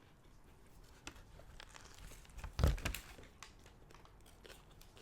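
Food wrapper crinkling and rustling as a wrap is handled and eaten, with a louder crinkle about two and a half seconds in and small scattered clicks.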